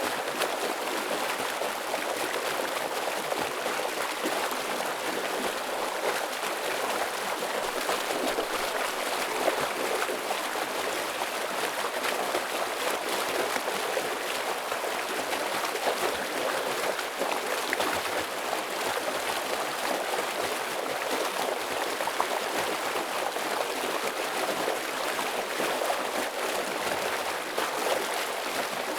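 Stream water flowing heavily over rocks: a steady, even rush with fine splashing and gurgling.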